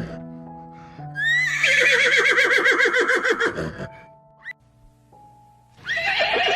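A horse whinnying twice over background music with held notes. The first whinny starts about a second in, rising and then trembling rapidly for nearly three seconds. A second whinny begins near the end.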